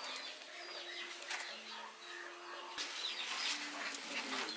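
Faint bird chirps, short falling peeps repeated every so often, with a few light clicks.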